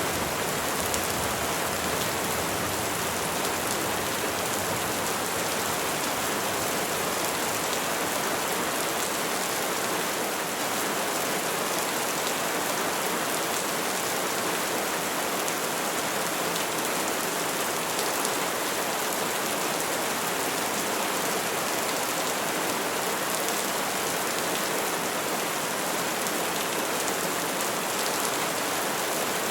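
Steady rainfall pattering on leaves and trees, a dense, even hiss of drops without thunder.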